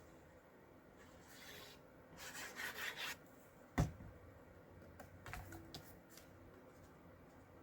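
Cardstock being handled and rubbed, in a few short scratchy strokes, then one sharp tap against the desk and a few light clicks.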